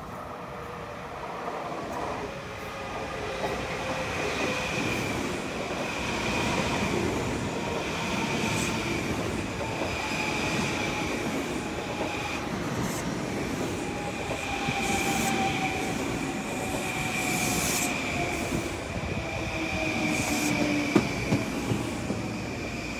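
Long Island Rail Road Kawasaki M9 electric multiple-unit train arriving and slowing along the platform, growing louder, its motor whine falling steadily in pitch over a steady high squeal and rail noise, with a few sharp clicks near the end.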